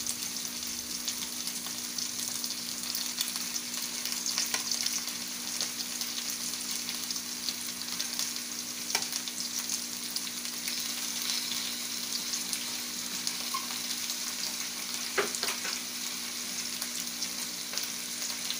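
Marinated chicken pieces frying in oil in a wok with carrots, potatoes and onion: a steady sizzle, with a couple of sharp ticks about halfway and near the end.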